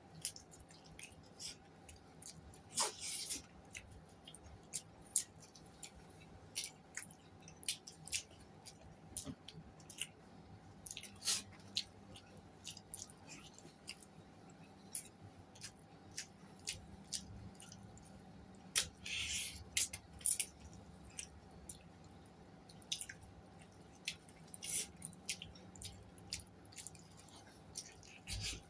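A person eating close to the microphone: irregular wet chewing and lip-smacking clicks, with a few longer, hissier mouth sounds about three and nineteen seconds in.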